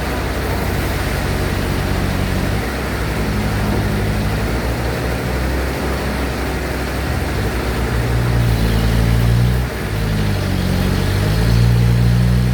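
Engine of a sawmill bandsaw running, its pitch sagging and recovering as the load changes, louder in the last few seconds with a short dip in the middle of that stretch.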